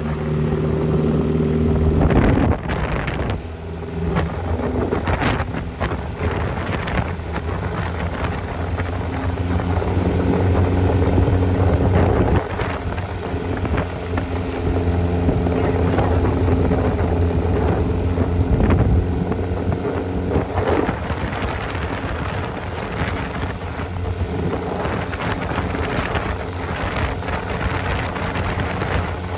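Supercharged MG TA race car engine pulling on the road, heard from the open cockpit with some wind on the microphone. The engine note drops sharply about two seconds in and again about twelve seconds in, then climbs again each time, as with gear changes.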